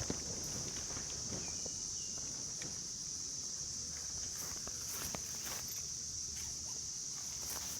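Steady chorus of singing insects, a continuous high-pitched buzz, with scattered light clicks and knocks.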